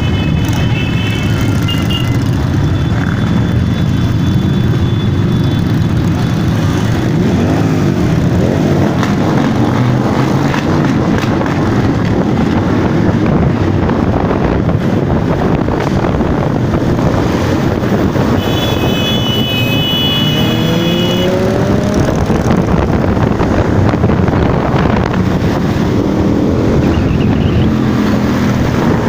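Motorcycle engines running and revving as a parade of bikes passes, a steady mass of engine noise with rising revs. A short high horn-like tone sounds about two-thirds of the way through.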